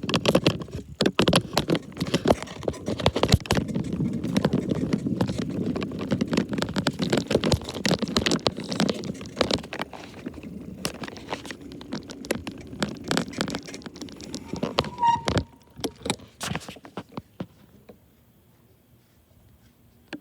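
Rattling and knocking of a camera jostling on a moving bicycle: dense rapid knocks over a low rumble, which drop away about 15 seconds in to a few knocks and then near quiet.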